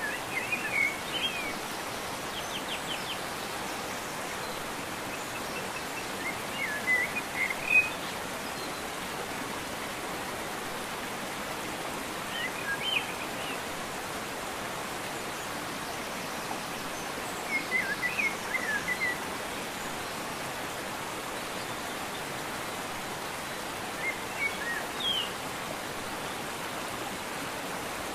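Birds chirping in short phrases every few seconds over a steady, even hiss.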